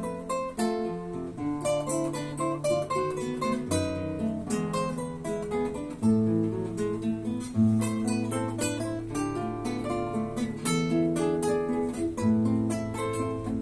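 Two classical acoustic guitars playing a duet, plucked melody notes over held bass notes, with occasional strummed chords.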